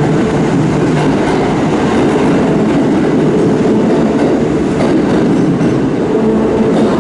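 Kintetsu 2800 series electric train moving along the platform, with a steady loud running noise and wheels clacking over rail joints.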